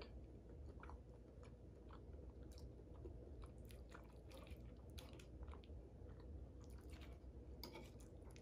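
Quiet chewing of a mouthful of lasagna, with scattered small clicks and wet mouth noises.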